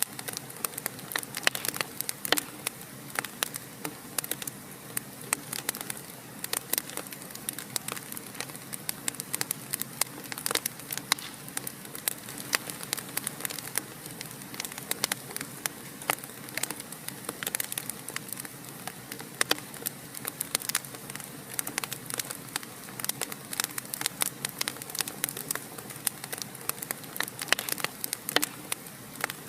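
Wood fire crackling in a fireplace: dense, irregular sharp pops and snaps over a steady soft hiss of burning.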